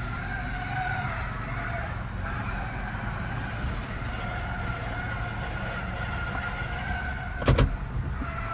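Toyota Hilux 2.8 turbodiesel running at low speed while manoeuvring, with its tyres squealing in a wavering high tone on a smooth epoxy floor. A single sharp knock near the end.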